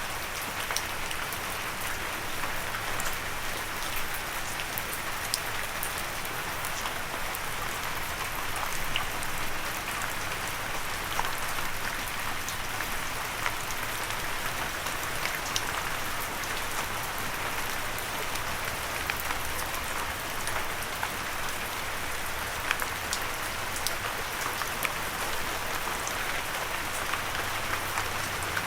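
Steady light rain falling, an even hiss with scattered sharp drips and patters of individual drops, no thunder.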